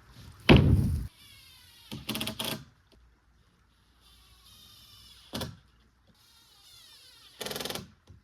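Battery-powered cordless drill run in four short bursts, the motor's whine sliding down in pitch as it winds down after each burst.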